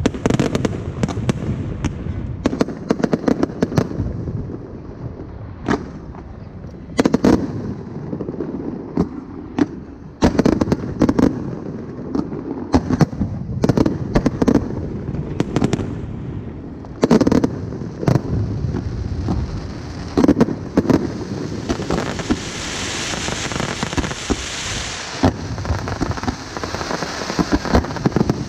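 Aerial fireworks shells bursting in quick succession, loud bangs with echoing tails. A few seconds before the end, a steady crackling hiss of the kind made by crackle-effect stars rises over the bangs.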